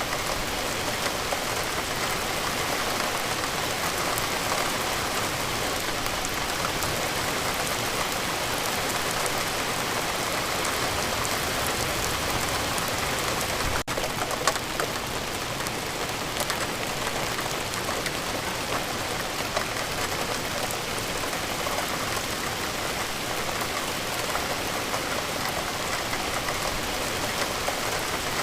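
Steady, even rain falling, a dense wash of drops hitting a surface. About halfway through there is a split-second gap with a click.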